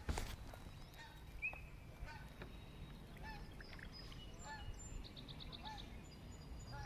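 Faint distant birds calling: short calls repeated about once a second, mixed with higher chirps and a brief trill about five seconds in. A short knock right at the start.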